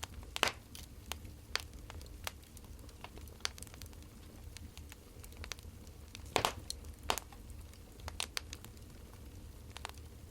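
Wood fire crackling: irregular pops and snaps over a low steady rumble, the loudest pops about half a second in and about six seconds in.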